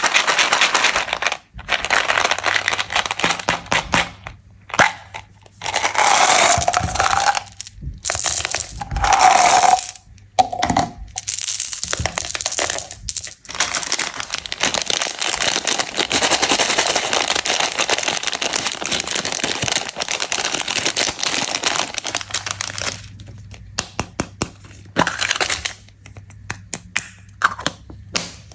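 Plastic candy wrappers crinkling, crackling and tearing as sweets are unwrapped by hand. The sound comes in bursts with short pauses and gives way to quieter, scattered crackles near the end.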